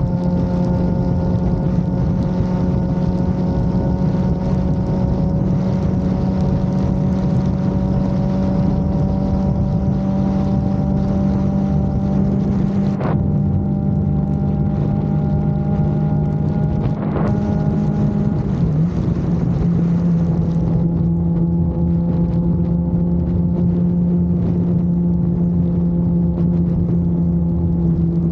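Suzuki GSX-R750 inline-four engine running steadily at cruising speed, with wind rushing over the microphone. The engine note drops slightly about 18 seconds in.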